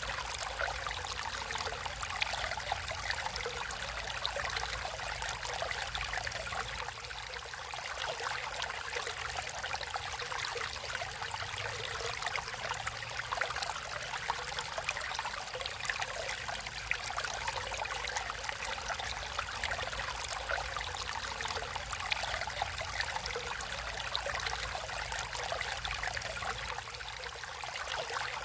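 Water flowing steadily in a natural stream, an even, continuous babble of running water.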